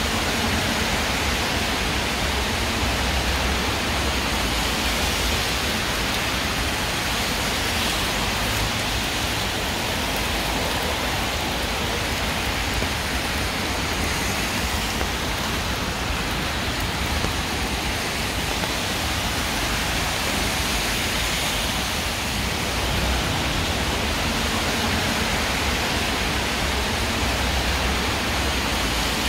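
Heavy downpour in a city street: a steady, dense hiss of rain with a low rumble underneath.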